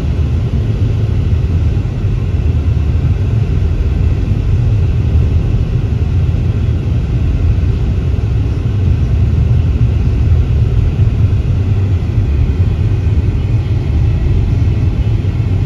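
Iguaçu Falls: steady roar of heavy falling water, deep and even, with no breaks.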